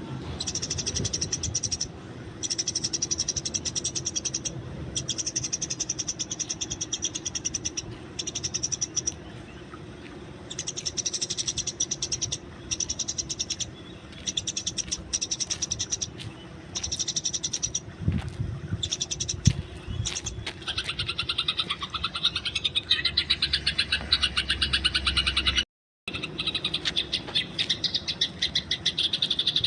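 Eurasian tree sparrows chattering: fast, high strings of chirps in bursts of one to three seconds with short breaks between, the busy, agitated chatter used as a fighting-call master for training songbirds. About 26 seconds in, the sound cuts out completely for a split second.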